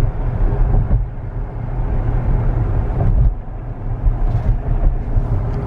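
Steady low road and tyre rumble inside the cabin of a moving Tesla Model X, with no engine note because the car is electric.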